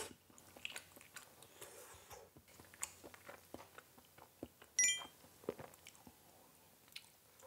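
Close-up chewing and biting of fried Spam and black bean noodles: soft wet mouth clicks and crackles scattered throughout. About five seconds in, a short bright ringing clink stands out.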